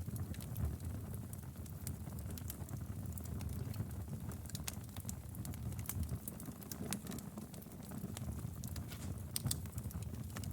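Wood fire burning in a fireplace: a steady low rumble of the flames with irregular sharp crackles and pops from the burning firewood.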